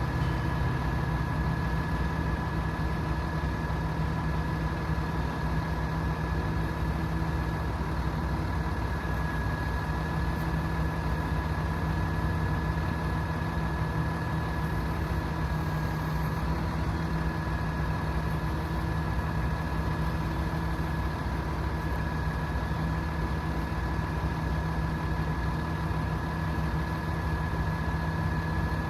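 Hino 338 truck's turbo diesel engine idling steadily, with a steady high whine running over it.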